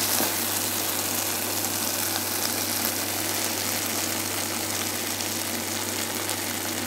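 Chicken hearts in onion-and-tomato masala sizzling steadily as they fry in a wok, over a constant low hum.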